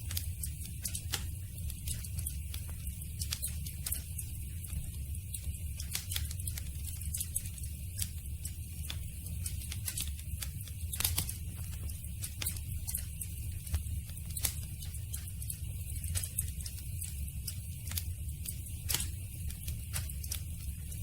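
Campfire burning: wood crackling with irregular sharp pops over a low steady rumble, a few pops louder than the rest.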